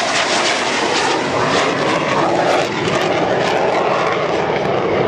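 Jet aircraft flying over, a loud steady engine noise whose pitch drops about halfway through.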